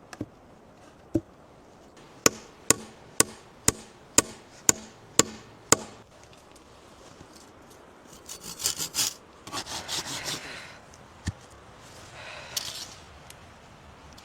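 Hand tools working wood: eight sharp knocks about two a second, like a tool striking timber. Then a few seconds of rough rubbing and scraping on wood, with one more knock between the bursts.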